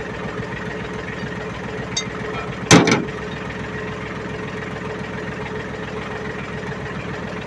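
Ford 1720 tractor's three-cylinder diesel engine idling steadily. About three seconds in there is one loud, sharp knock with a short ring, and a faint click a little before it.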